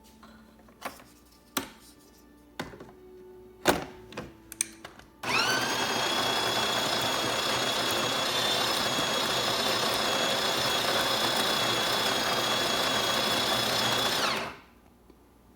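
Espresso machine's built-in conical burr grinder running for about nine seconds: a motor whine that rises as it spins up, holds steady over the rush of grinding, then winds down. A few clicks and knocks of handling come before it.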